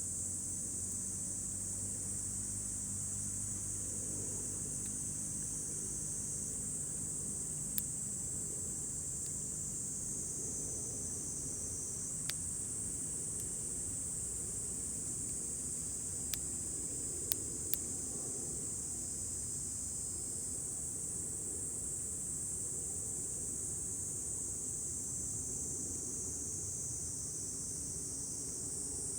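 Steady high-pitched chirring of insects, with a few sharp pops of burning wood crackling in a campfire: five, at about 8, 12, 16, 17 and 18 seconds in. A low rumble runs underneath.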